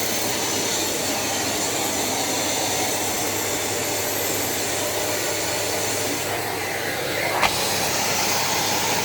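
Sharp EC-BG1805A-R 1800W bagged vacuum cleaner running with a steady rushing whoosh, switched on just before, with a brief louder swish about seven and a half seconds in.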